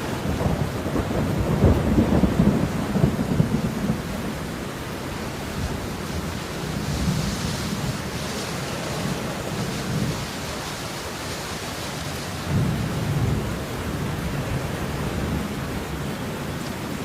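Steady rainfall, with a low rumble through the first few seconds and another about two-thirds of the way in.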